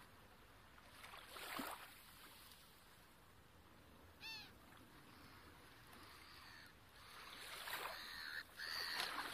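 Quiet outdoor ambience with a soft swell of noise early on, one short bird call about four seconds in, and repeated bird calls growing louder near the end.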